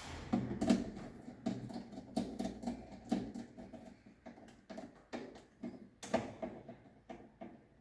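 Irregular plastic clicks and knocks from handling miniature circuit breakers in a consumer unit, as a breaker is removed from and fitted to the rail. The clicks come thickly at first and thin out near the end.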